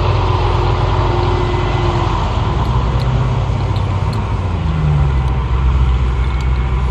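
Car engine running with road noise, a steady low drone; the engine note shifts about four seconds in.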